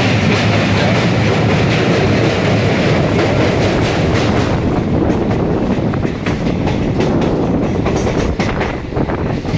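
Passenger train running at speed over a steel truss bridge, heard from a coach window: a loud, steady rumble of wheels on rails with rapid clatter. The rumble eases slightly after about six seconds.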